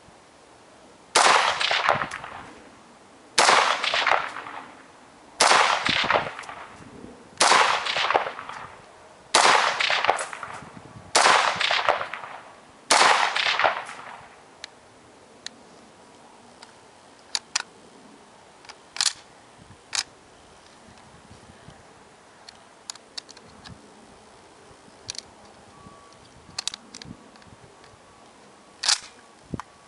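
M1 Garand semi-automatic rifle firing seven shots, about two seconds apart, each followed by a long rolling echo. Then a stretch of scattered sharp clicks and knocks with no further shot.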